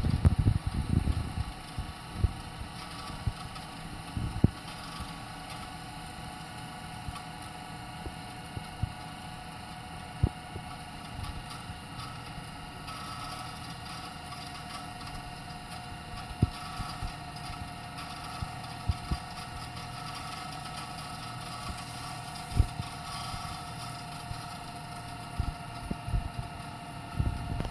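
VCR fast-forwarding a VHS tape: a steady motor and spinning-reel whir with a thin whining tone, with scattered small clicks and knocks.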